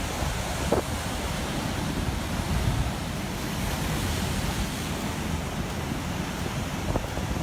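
Heavy storm surf with strong wind buffeting the microphone, a steady rushing noise of breaking water and gusts.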